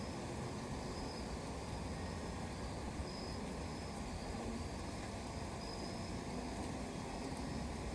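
Crickets chirping in a high-pitched, on-and-off trill over a steady low rumble, most likely distant traffic.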